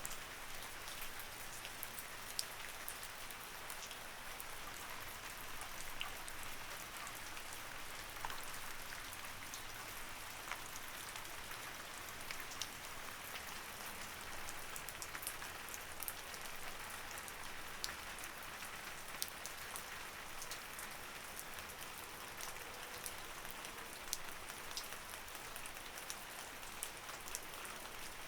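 Light rain falling steadily: a soft, even hiss with many separate drops ticking sharply on a surface.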